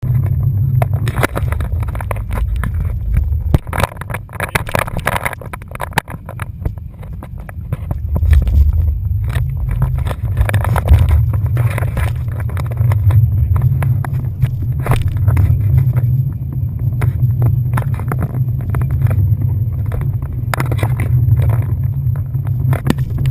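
Motorboat running at speed: a steady low engine and hull rumble, with wind noise on the microphone in frequent short gusts.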